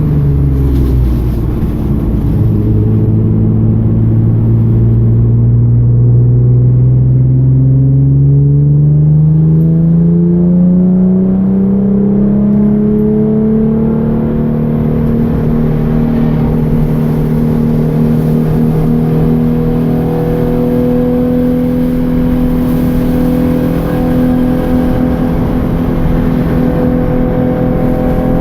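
Hyundai Genesis Coupe's 3.8-litre V6 engine under way on track: the revs drop right at the start, then climb slowly and steadily for about ten seconds as the car pulls through a gear, and hold nearly even, creeping upward, for the rest.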